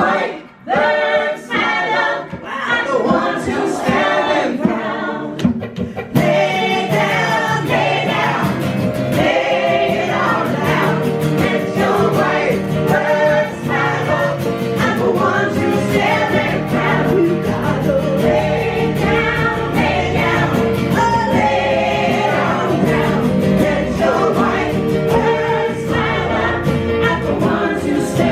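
Voices singing together in a gospel-choir style, with a fuller accompaniment filling in about six seconds in.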